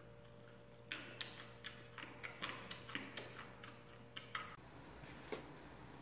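Fresh lotus seeds being chewed: a fast, irregular run of sharp crunchy clicks as the seeds pop open between the teeth. The clicks stop suddenly about four and a half seconds in.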